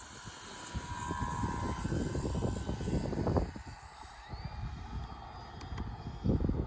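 Electric RC warbird's motor and propeller whining high as it flies, fading about four seconds in. Heavy wind buffeting on the microphone rumbles in gusts throughout and is the loudest sound, easing for a couple of seconds in the middle.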